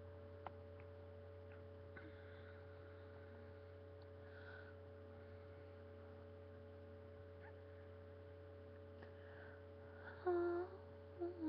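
Steady low electrical hum with faint room noise and a few small clicks. Near the end there is a brief sung or hummed vocal note.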